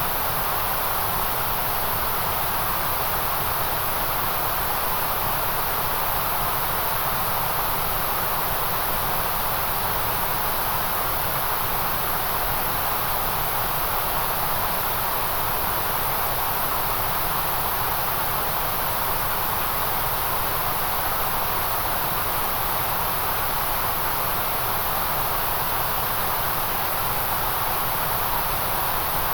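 Steady white noise: an even, unchanging hiss, strongest in the upper treble with a second band around the middle of the range.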